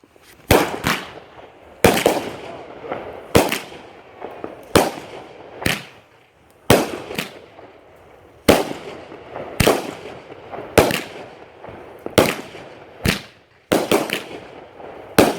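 Fireworks going off: a string of sharp bangs, roughly one a second with uneven gaps, each trailing off in a fading echo, with a quick cluster of bangs near the end.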